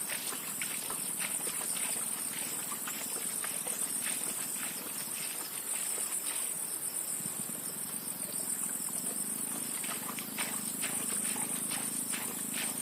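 Insects chirring in a steady high-pitched chorus that pulses slightly, with scattered sharp clicks and ticks through it.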